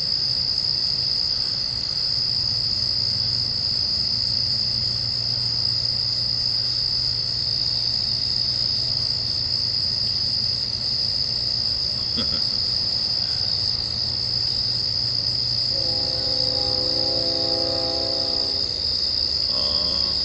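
Crickets trilling in a steady, unbroken high chorus. A brief pitched hum comes in about three-quarters of the way through.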